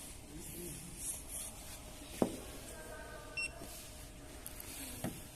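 A short, high electronic beep about a third of the way in, with two sharp clicks, one before it and one near the end, over a faint steady hiss.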